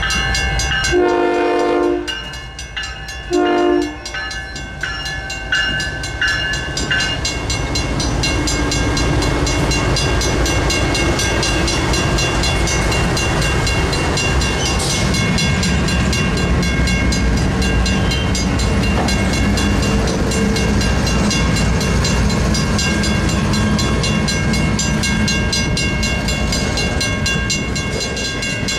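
Railroad crossing bell ringing as a Union Pacific freight train approaches, its locomotive horn sounding two blasts near the start: a longer one, then a shorter one. The diesel locomotives and freight cars then roll through the crossing with a steady rumble and wheel clatter.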